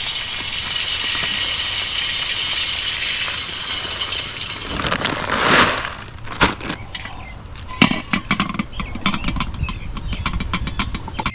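Birdseed being poured into a bird feeder: a steady hiss of seed streaming in for about four seconds, swelling once more, then giving way to scattered clicks and ticks as the last seeds rattle in.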